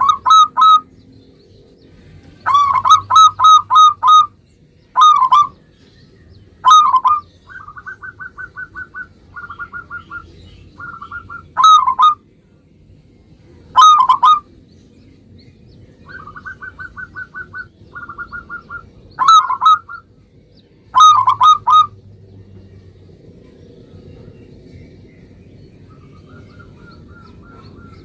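Zebra dove (perkutut) cooing: loud, clear coo phrases repeated every few seconds, some as quick series of several notes. Between them come softer runs of rapid short notes, and near the end only a faint run of short notes.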